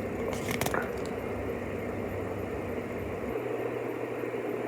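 Steady low background hum with a few faint clicks about half a second in.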